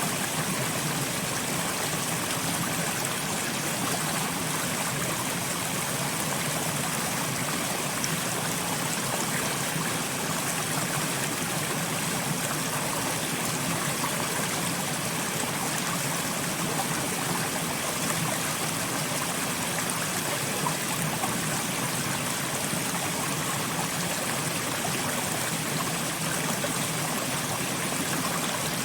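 Soft rain falling steadily, an even, unbroken hiss of water with no single drops or events standing out.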